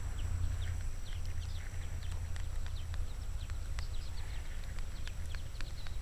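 Small birds chirping repeatedly in quick, short notes over a steady low rumble, with a few sharp clicks scattered through.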